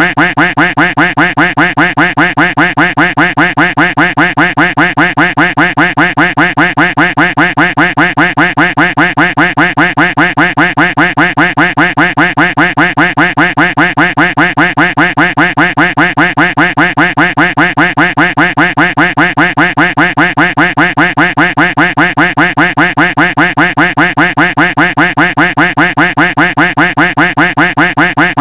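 Duck quack sound effect looped without pause, quacking over and over about four to five times a second in a steady, unchanging rhythm.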